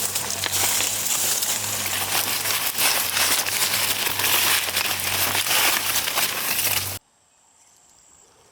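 Dry corn stalks, leaves and husks rustling and crackling densely as they are handled, with a steady low hum underneath; the sound cuts off suddenly about seven seconds in.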